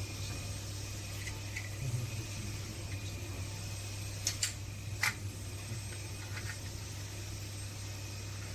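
Steady low mechanical hum with a faint hiss, broken by a few short clicks about halfway through.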